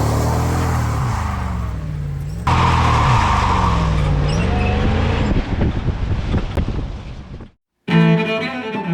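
Supercharged V8 of a Ford SVT Lightning pickup doing a burnout: the revs rise and fall repeatedly over a steady tire squeal, with a jump cut about two and a half seconds in. The engine fades out near the end and bowed-string music starts.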